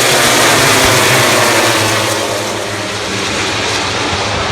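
The field of MotoGP bikes at full throttle on the opening lap, a loud, dense wash of many engines together, heard played back from a TV broadcast. It eases off slightly a couple of seconds in.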